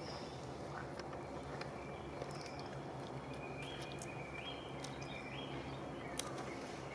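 Quiet ambience with a bird repeating a short two-step call, a lower note jumping to a higher one, about once a second from midway on, over a steady low hum and a few faint clicks.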